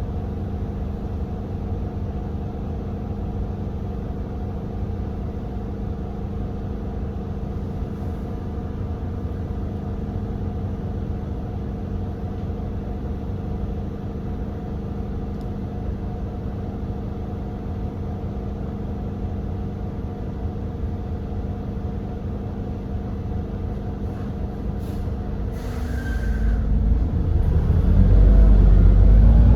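GX12P natural-gas engine of an Edison Motors Smart 110G city bus idling steadily, with a brief hiss about 26 seconds in. Near the end the engine pitch rises and it gets much louder as it accelerates.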